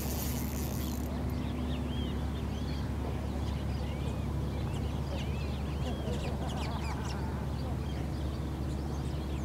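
Birds calling over and over in short, rising-and-falling chirps, above a steady low rumble.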